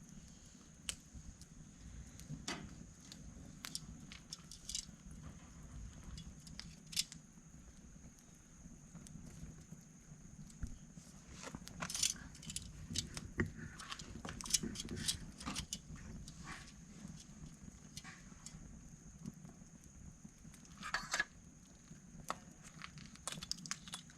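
Scattered sharp clicks and clatters of firewood and sticks being handled with metal tongs at a small wood fire, busiest in the middle and again near the end, over a faint steady high tone.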